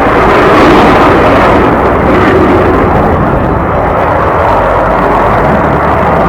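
Loud, steady jet aircraft noise, a rushing sound with no clear tone, easing slightly after the first second or so.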